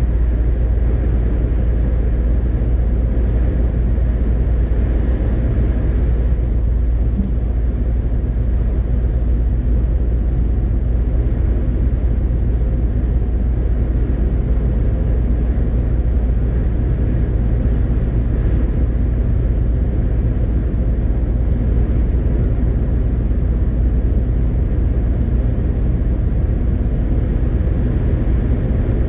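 MAN TGX 18.520 truck driving at steady speed: its 12.4-litre straight-six diesel engine runs with a continuous low drone, mixed with road and tyre noise. A faint, thin high tone comes in a little past halfway and holds.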